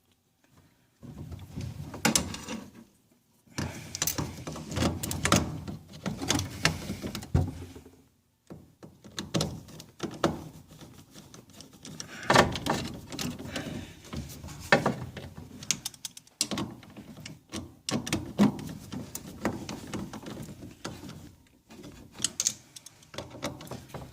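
Hand work on metal parts: irregular clicks, clunks and rattles of tools and fittings as a windshield washer pump is refitted under a van, with a few short pauses.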